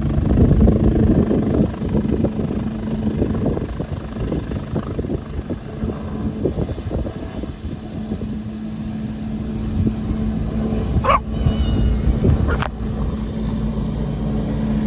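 Helicopter running steadily, its low engine tone and rotor chop continuing throughout. A dog barks twice, a little over a second apart, near the end.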